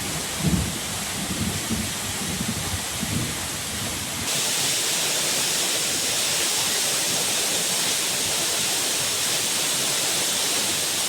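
Rain hissing with low, irregular rumbles of thunder. About four seconds in it cuts suddenly to a steady, even rush of falling water.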